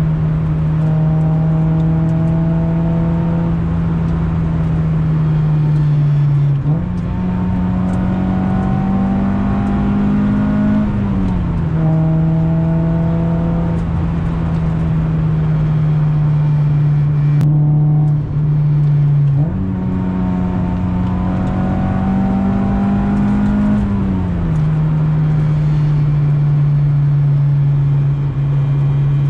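Acura Integra GS-R's B18C1 four-cylinder engine running through its Yonaka exhaust under a steady load on a mountain climb. Twice, about a quarter of the way in and again past the middle, the engine note jumps up, rises a little for a few seconds, then drops back to its earlier pitch.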